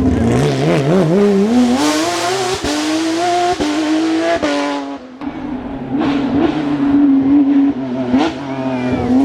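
Porsche 997 GT3 rally car's 3.6-litre flat-six engine accelerating hard, its note climbing in steps through quick upshifts. About five seconds in it lifts off and runs at a steadier note, with a short sharp blip near the end.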